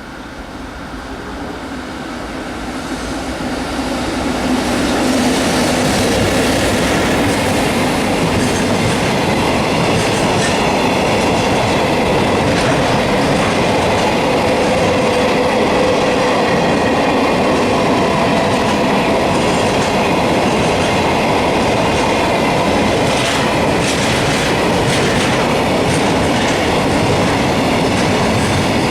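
Freight train hauled by an EF65 electric locomotive passing close by. The sound builds over the first few seconds, then holds loud and steady as the long string of freight wagons rolls past, wheels clattering over the rail joints.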